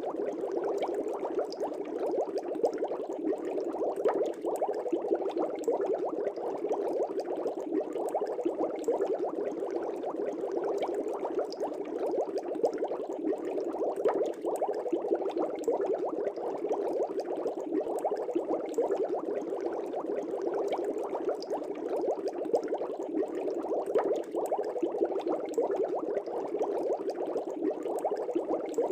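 Fish tank air bubbles rising and bubbling at the water's surface: a steady, dense stream of small pops and gurgles.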